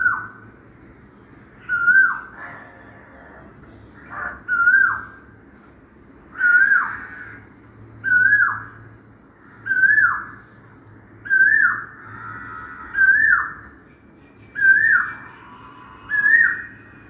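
Asian koel calling: a loud whistled note that rises and then drops away, repeated about ten times at an even pace of roughly one every one and a half seconds. Faint high chirps from smaller birds sound between the calls.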